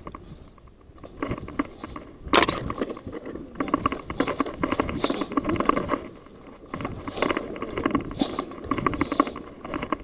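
Rustling and scraping from someone moving through brush, in bursts of dense crackle, with one sharp crack about two seconds in.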